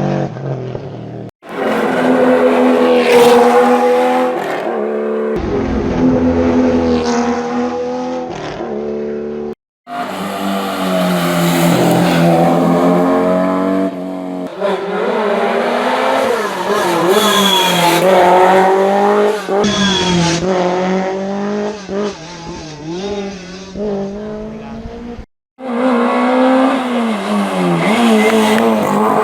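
Historic rally cars at full throttle on a special stage, their engines revving up and dropping through gear changes. The sound cuts off abruptly three times, between separate runs.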